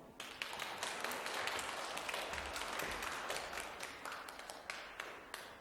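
Audience applauding, a dense patter of claps that starts as the piano piece ends and fades away near the end.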